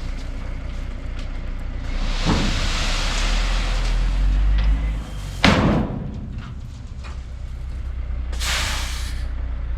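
Engine running at a low steady rumble, with two stretches of scraping hiss and one sharp clunk about five and a half seconds in.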